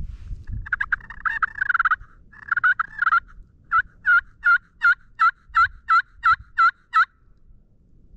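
Turkey yelping: two rapid, rolling runs of notes, then a series of about ten evenly spaced yelps, roughly three a second, that stop just after seven seconds in.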